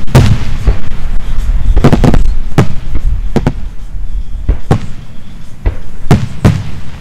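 Aerial fireworks shells bursting: about a dozen sharp bangs at irregular intervals, several in quick pairs, over a continuous low rumble.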